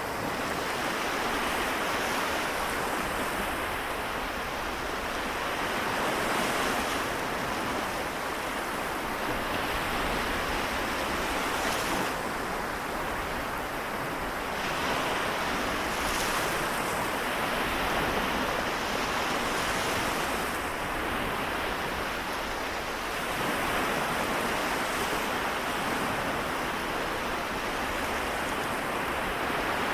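Small waves of the Seto Inland Sea breaking and washing on the shore, a continuous surf hiss that swells and eases every few seconds.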